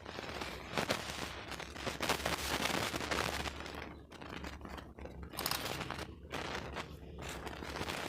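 Small campfire crackling, with many sharp pops and snaps over a steady hiss.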